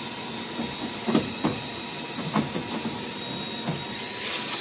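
Vacuum cleaner sucking through a long flexible dryer-vent lint hose attachment: a steady airy hiss with a thin whine, broken by a few short low bumps.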